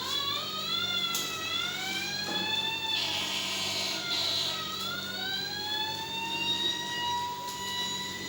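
Fire truck siren wailing: a pitched tone that sweeps up sharply, dips about five seconds in, then rises again and holds.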